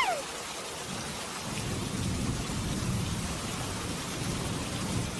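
Rain falling steadily with low rolling thunder, the rumble building about a second in.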